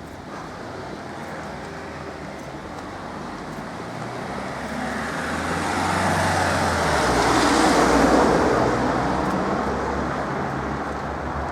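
Road traffic with a motor vehicle passing close by: its noise builds steadily, is loudest about eight seconds in, then fades.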